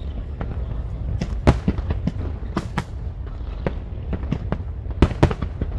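Fireworks going off in a rapid, irregular string of sharp cracks and bangs over a steady low rumble. The loudest bangs come about a second and a half in and again near the end.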